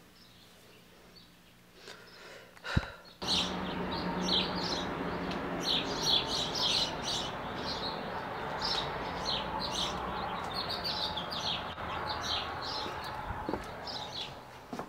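Small birds chirping repeatedly over a steady outdoor background noise, starting abruptly about three seconds in after a single click.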